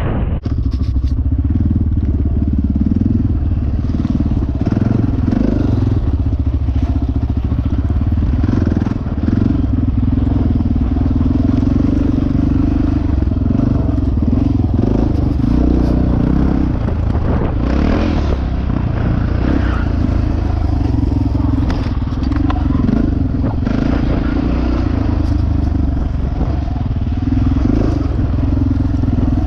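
Dirt bike engine running as it is ridden, its pitch rising and falling with the throttle.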